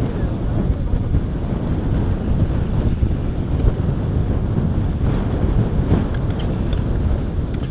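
Strong wind buffeting the microphone: a steady low rumble that swells and falls with the gusts.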